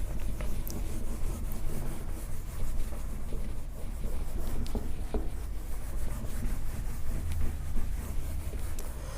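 An eraser rubbing across a board as it is wiped clean, with a few light knocks, over a low steady hum.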